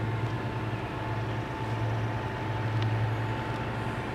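Distant approaching diesel freight train led by a Union Pacific AC6000 locomotive: a steady low engine drone with a thin steady high tone above it.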